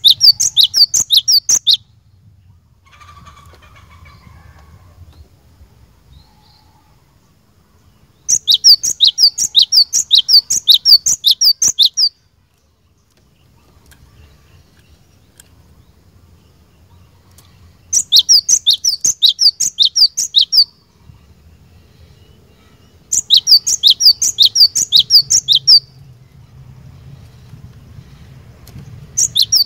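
Cinereous tit (glatik batu) singing in bursts of rapid, repeated sharp high notes. Each burst lasts about two to four seconds, with pauses of a few seconds between; there are four full bursts and a fifth starting at the very end.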